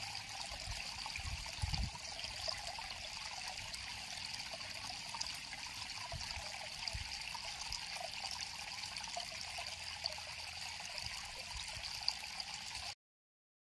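River water flowing and trickling steadily, with a few low thuds underneath. The sound cuts off suddenly about a second before the end.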